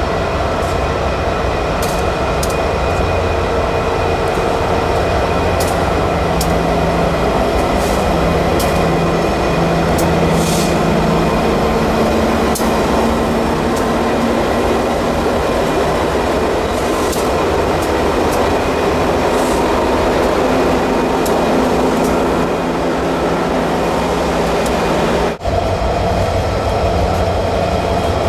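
A train running on the rails: a steady loud rumble with a low hum and scattered sharp clicks, with a brief drop in level about 25 seconds in.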